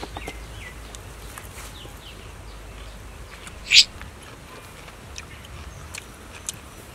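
Small birds chirping in short falling notes, with one loud, brief call a little under four seconds in, over faint scattered clicks.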